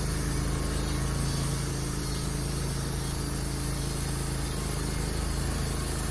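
Wood-Mizer LT15 portable bandsaw mill running steadily at full power, its band blade cutting through a log.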